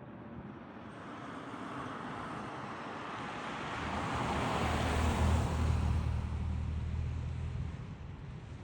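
A road vehicle passing by: tyre and engine noise builds up, is loudest about five seconds in with a low engine hum, then fades away.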